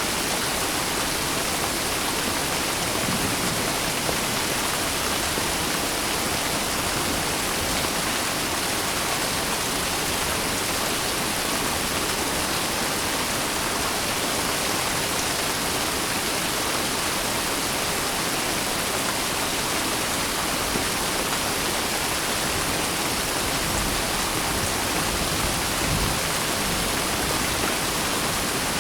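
Rain falling steadily, an even hiss without separate drops or thunder.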